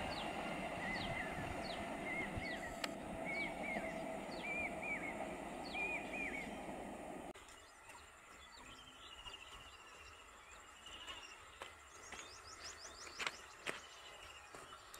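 Faint outdoor ambience: a bird calls over and over in short chirps, about two a second, over a low steady rumble with a faint hum. The rumble cuts off abruptly about seven seconds in, leaving quieter background with scattered bird chirps and a few clicks.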